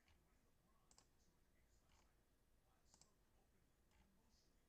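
Near silence: room tone with faint, sharp clicks about once a second.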